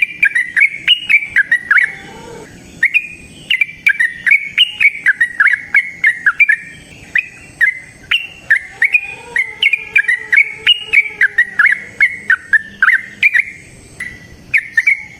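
Yellow-vented bulbul (trucukan) singing its long rolling 'ropel' song: a fast string of short, bubbling chirps, broken by a short pause about two seconds in.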